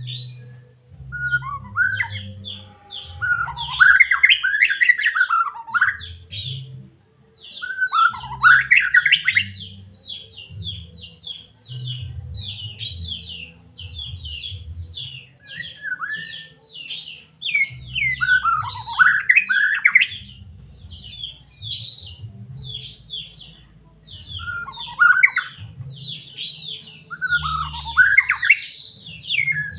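White-rumped shama (murai batu) singing: a fast, unbroken run of short high chirps, broken every few seconds by louder sweeping whistled phrases. A low hum runs underneath.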